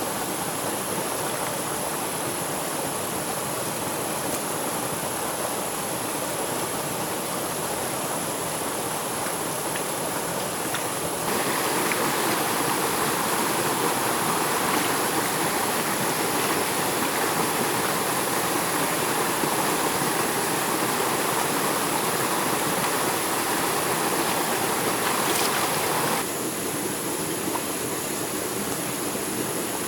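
Steady rush of flowing stream water. It turns suddenly louder and brighter about eleven seconds in, then drops back just as suddenly a few seconds before the end.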